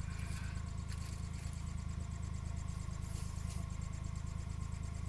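A car engine idling: a steady low hum with a few faint clicks.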